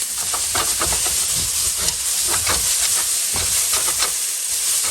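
Noodles sizzling loudly in a hot oiled wok with a steady hiss, with scattered clicks and scrapes of the utensil stirring and tossing them.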